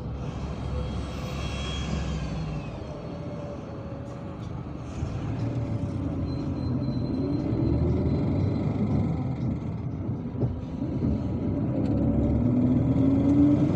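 MAZ-257 coach under way, heard from inside: a steady engine and road rumble, with a whine that rises in pitch twice, about halfway through and again near the end, as the bus picks up speed.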